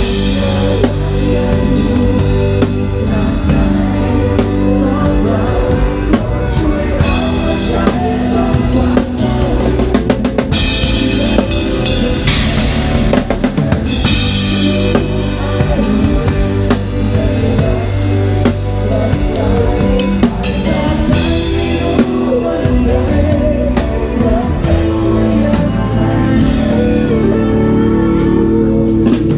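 Live rock band playing, the drum kit prominent over bass and guitar, with several cymbal crashes through the passage.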